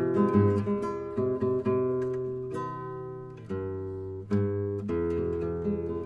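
Acoustic guitar playing: plucked chords start sharply and ring out, fading before the next one comes about every second.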